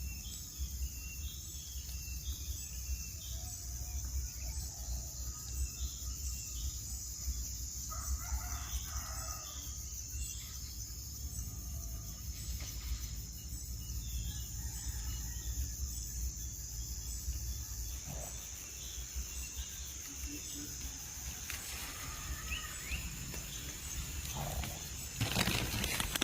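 Scattered short bird chirps over a steady high-pitched hum and a low background rumble, with a louder rustling burst near the end.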